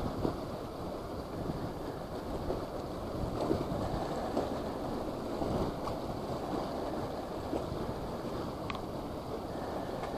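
Strong wind buffeting the microphone, a steady low rushing noise, with a faint tick near the end.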